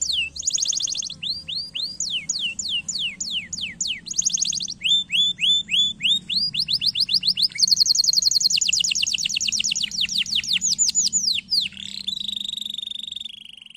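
Domestic canary singing a fast, unbroken song. Runs of quick downward-sliding notes change speed from phrase to phrase and alternate with rapid buzzing trills. The song ends in a long trill that fades out near the end.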